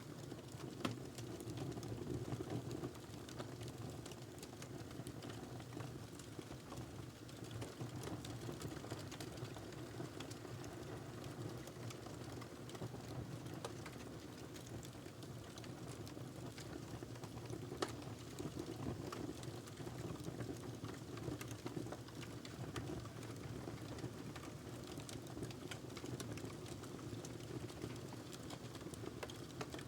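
Log fire burning in a fireplace: a soft steady hiss and low rumble with many small, scattered crackles. A sharper pop comes about a second in and another about eighteen seconds in.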